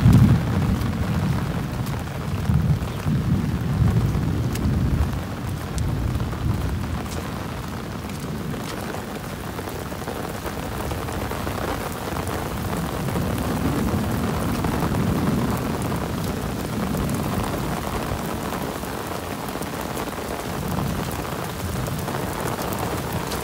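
Heavy rain pouring down onto a wet, flooded road, a steady hiss, with low rumbles that swell and fade a few times.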